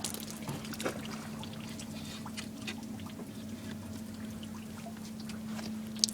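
Water trickling and splashing over a steady low hum, with scattered small clicks and one sharper click near the end.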